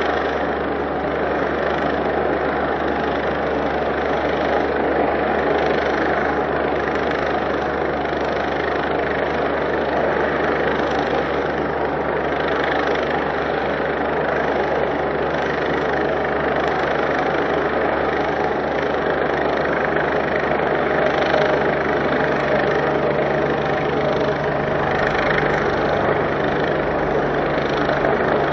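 Helicopter running steadily, heard close up, as one continuous mechanical noise; its low hum shifts slightly near the end.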